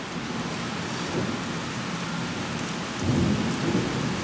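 Steady rain falling, with rolling thunder starting to rumble about three seconds in.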